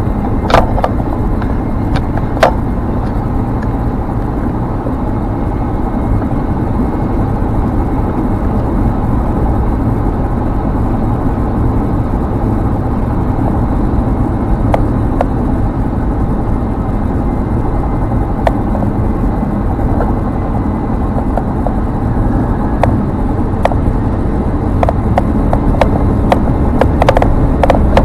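Ford Explorer Sport's twin-turbo V6 running hard under sustained acceleration, with steady road and wind noise, heard from inside the vehicle at very high speed, with a few sharp clicks. The noise grows slightly louder near the end.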